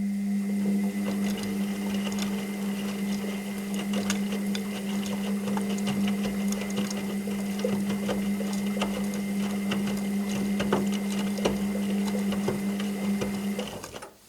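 Washing machine running in its wash cycle: a steady motor hum with a faint higher whine and many small clicks and rattles. It runs for about fourteen seconds, then the motor stops near the end.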